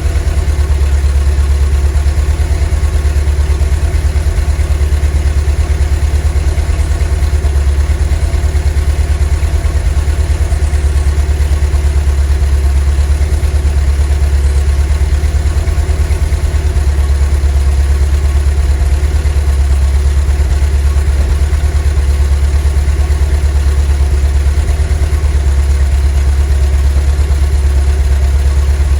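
VW T3 bus's 2.1-litre WBX water-cooled flat-four engine running steadily at idle, a low, even drone with no change in speed.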